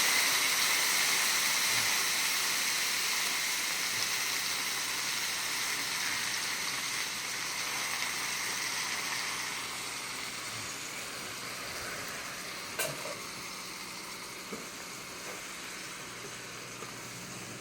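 Pasta water sizzling and hissing in a hot pan of broccoli as it turns to steam, the sizzle slowly dying down. A single click about 13 seconds in.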